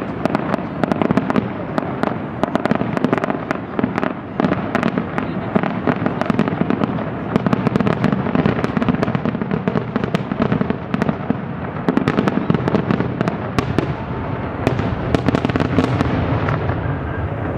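Fireworks finale: many aerial shells bursting in rapid succession, a dense, unbroken run of sharp bangs and crackling over a steady low rumble of overlapping booms.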